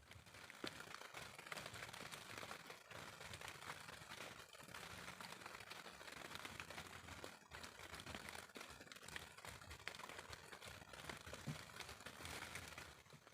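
Faint rain pattering steadily, a dense run of tiny ticks.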